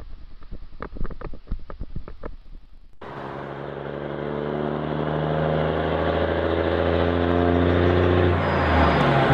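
A series of irregular sharp knocks for about three seconds, then a motor vehicle's engine running under load, its pitch climbing slowly and then dropping near the end.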